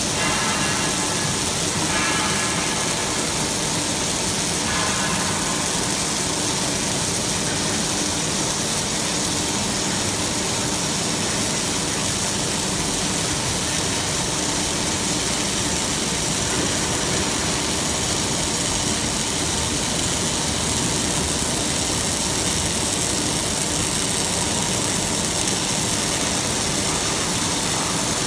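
Steady, even machine noise from a robotic welding station, unchanging throughout, with a few faint held tones over the first few seconds.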